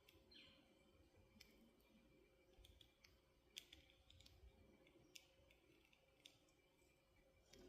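Near silence: room tone with faint, scattered small clicks and ticks, about one or two a second.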